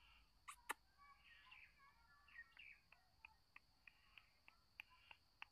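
Faint bird chirping with a few sharp clicks, giving way to a run of short, evenly spaced ticks, about three a second.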